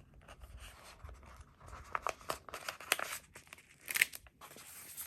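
Paper handling: a sticker sheet and planner pages rustling and clicking as a sticker is peeled and placed, with a sharper crackle about four seconds in.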